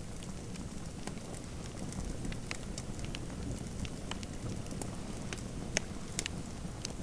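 Fireplace fire crackling: irregular sharp pops and snaps over a steady low rumble, with the loudest pop a little before six seconds in.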